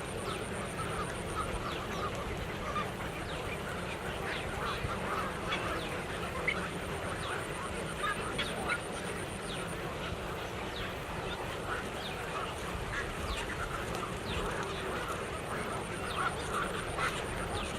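A large flock of waterbirds calling all at once: a dense chorus of many short, overlapping honking and squawking calls that never lets up.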